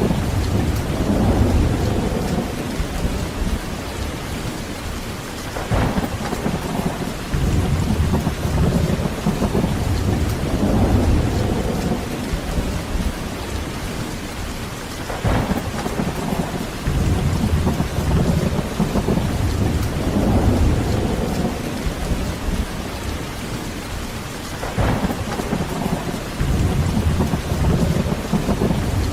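Heavy rain falling steadily, with rolling thunder rumbling in long low swells. Three brief sharper cracks come about nine seconds apart.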